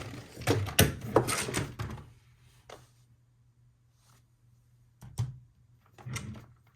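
Toys and packaging being handled: a quick run of clicks and knocks, then a pause, then a few more knocks near the end.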